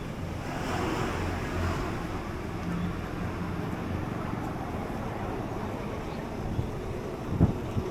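Outdoor traffic noise: a vehicle passes about a second in, over a steady low rumble of wind and traffic, with a short thump near the end.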